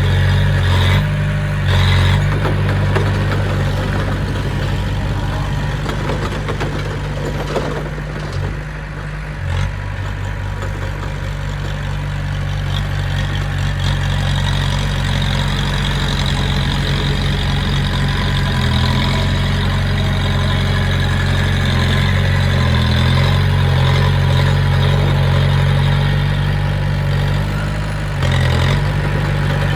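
Heavy diesel engine of earthmoving machinery running steadily at low revs, with a short drop in level about eight to nine and a half seconds in.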